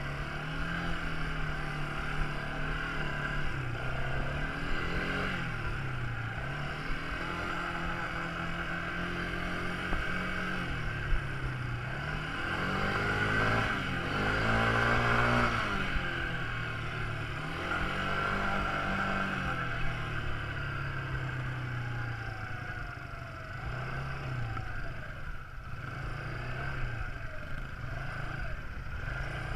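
Quad bike engine running and revving up and down repeatedly, its pitch climbing highest and loudest about halfway through.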